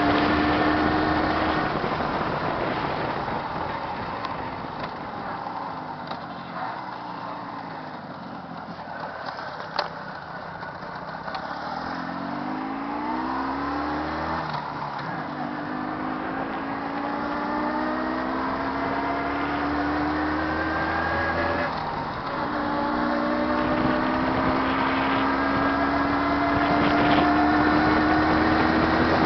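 Jawa 638 motorcycle's two-stroke twin-cylinder engine running warm under way, its pitch climbing slowly as it pulls and dropping back at a few gear changes. It grows fainter in the middle and louder again near the end.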